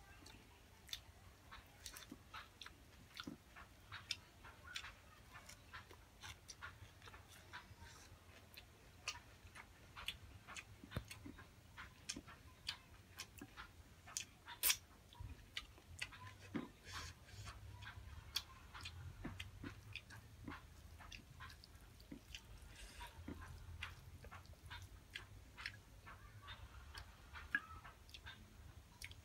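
A person eating by hand, heard faintly: chewing with irregular small wet clicks and smacks, and one sharper click about halfway through.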